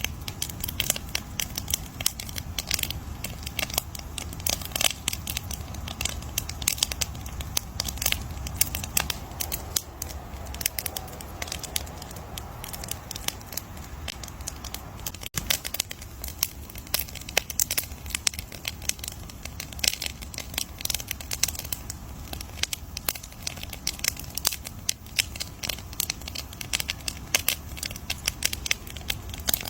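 Campfire crackling: wood burning with dense, irregular pops and snaps over a steady low rumble of flame.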